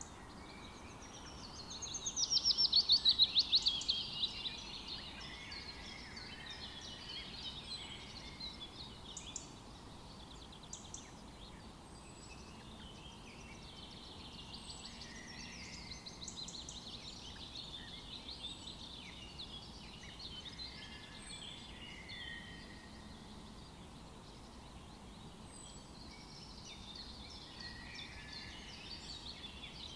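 Forest birdsong from several birds. About two to four seconds in, one loud, rapid trill of repeated notes falls in pitch; quieter songs and short high chirps are scattered through the rest.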